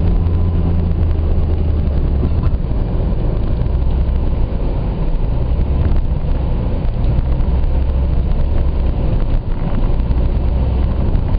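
A car's engine and road noise while driving: a steady low drone with no breaks.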